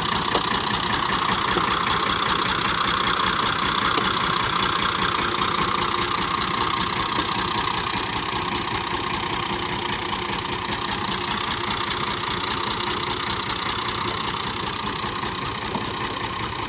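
Tractor engine running steadily, gradually getting a little quieter over the second half.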